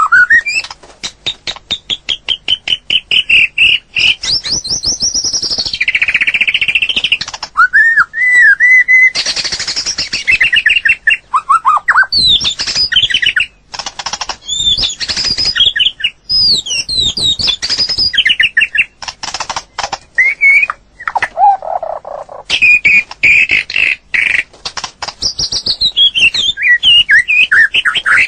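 White-rumped shama singing a long, varied song: loud clear whistles that glide up and down, mixed with fast trills and sharp clicking notes, in phrases broken by short pauses.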